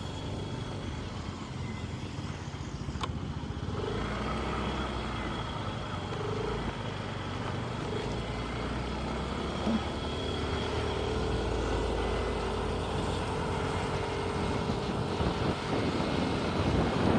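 Motorbike riding along a road: steady engine, tyre and wind noise.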